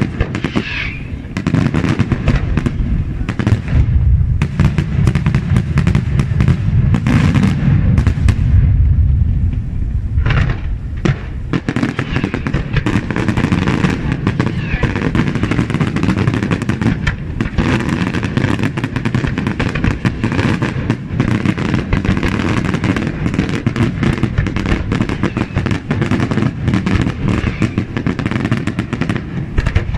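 Pirotecnica Senatore daytime fireworks: a dense, unbroken barrage of shell bursts and crackling, with heavier low booms through the first third.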